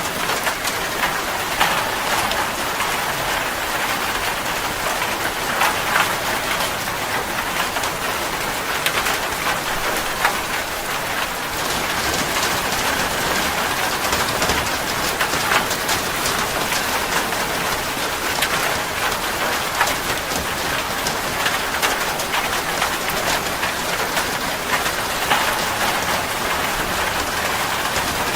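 Steady rain falling and pattering on a surface, with many small drop ticks over an even hiss.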